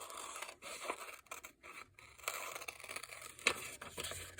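Scissors cutting paper in a run of short, irregular snips.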